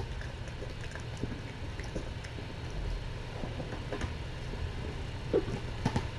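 Kittens playing at close range: scattered soft taps, clicks and rustles, a few sharper ones near the end, over a steady low room hum.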